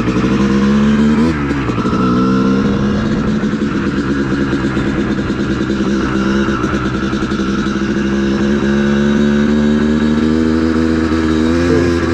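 Honda CR250 two-stroke dirt bike engine running under throttle. Its pitch climbs in the first second, drops sharply as the throttle is rolled off a little over a second in, then climbs slowly again.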